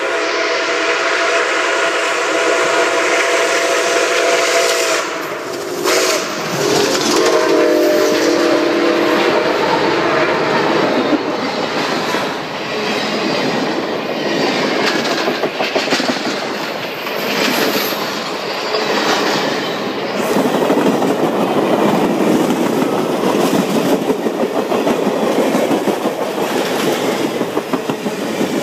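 Train ride: the locomotive sounds a long blast, a steady chord of several tones lasting about five seconds, then a second, lower-pitched blast from about six to ten seconds in. After that the train runs on with a steady rumble and the clickety-clack of the wheels on the rails.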